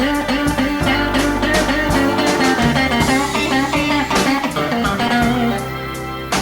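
Blues instrumental break: an electric guitar repeats a short, bending riff about three times a second over bass and a steady beat.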